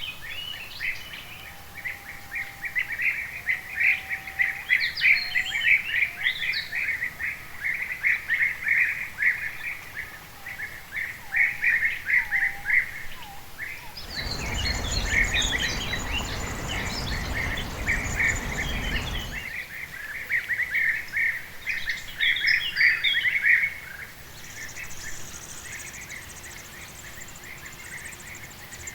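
Birds chirping in rapid, dense runs of short high notes, with a few lower whistled notes in the first several seconds. About halfway through, a steady rushing noise covers the calls for about five seconds.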